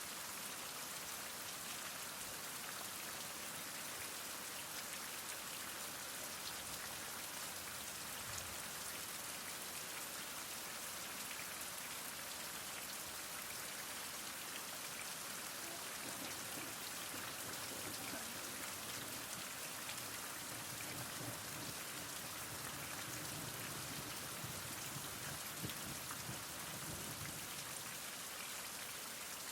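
Heavy rain falling steadily, a dense hiss of drops with fine individual patter on surfaces.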